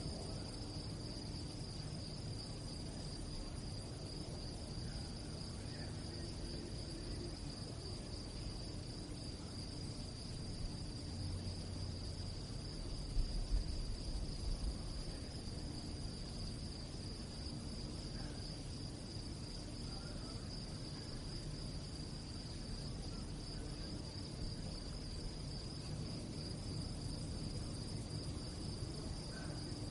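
Crickets chirping in a steady chorus, one continuous high trill, over a low background rumble, with a brief low rumble about halfway through.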